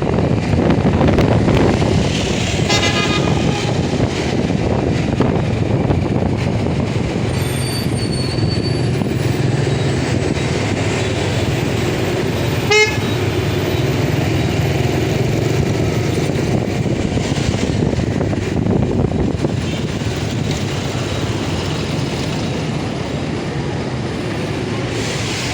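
Steady wind and road noise from a moving motorcycle ride, with a brief horn toot about three seconds in and a short sharp blip about halfway through.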